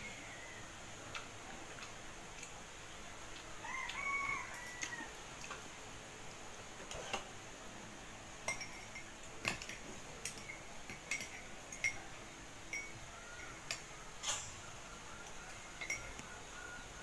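A rooster crows once, a single curved call lasting about a second, roughly four seconds in. From about seven seconds on, a spoon and fork tap and clink against a ceramic mug in a string of short, sharp clicks.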